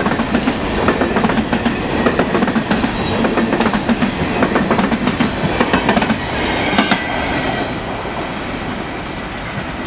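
Coal hopper cars of a freight train rolling past, their wheels banging over the open field joint between new and existing rail, a gap left for welding. The bangs thin out after about seven seconds as the last cars go by and the sound fades.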